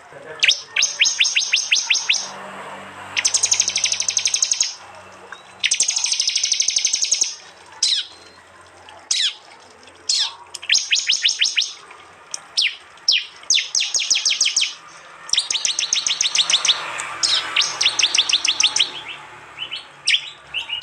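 Prinia (prenjak) 'tembakan' calls: loud bursts of rapid, sharp ticking notes, each burst about a second long and repeated every couple of seconds, broken by single quick down-slurred whistles.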